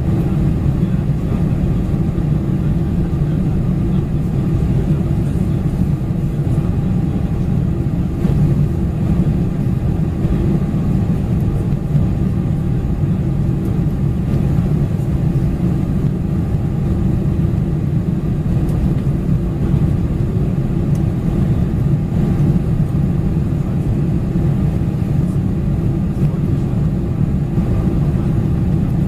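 Steady low drone inside the cabin of a four-engine Boeing 747-400 in flight: engine and airflow noise heard from a seat in the rear cabin, even and unchanging throughout.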